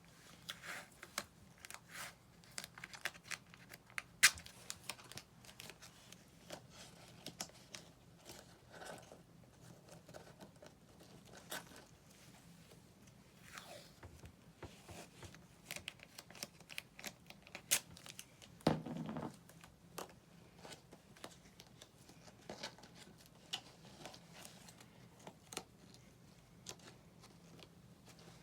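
Cardboard being handled, torn and crumpled by hand: irregular sharp crackles and light taps, with a louder snap about four seconds in.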